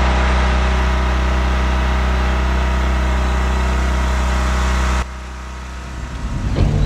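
Portable generator engine running steadily with a strong low hum. About five seconds in it cuts off abruptly to a quieter steady hum, and a rising sound starts near the end.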